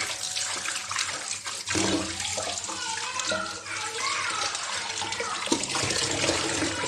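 Tap water running and splashing as a whole raw chicken is washed by hand, rinsing off the fat.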